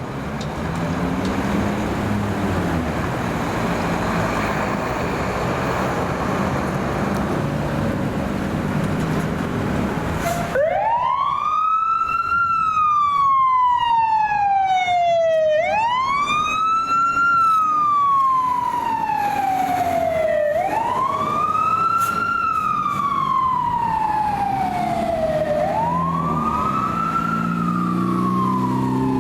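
Fire truck engine and road noise, then about ten seconds in a siren starts wailing. Each cycle rises quickly to a high pitch and slides slowly back down, repeating about every five seconds.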